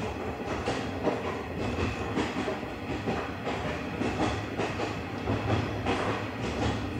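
JNR 50-series passenger coach running along the track: a steady rumble of wheels on rail with a regular clickety-clack of wheels over rail joints, a couple of beats a second.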